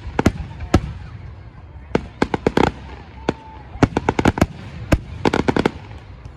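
Fireworks going off: single sharp cracks, then several quick volleys of rapid crackling bangs about a second or two apart, over a low background rumble.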